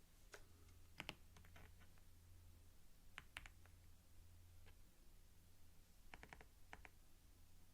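Computer keyboard typed on slowly and close up, with single keystrokes and short clusters of clicks separated by pauses of a second or more.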